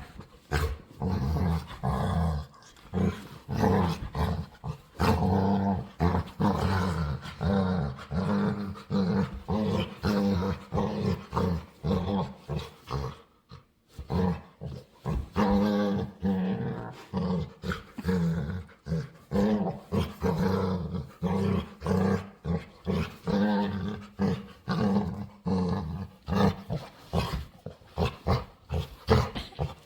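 Pet dog making playful growling, grumbling noises in quick repeated bursts, with a brief pause about halfway through.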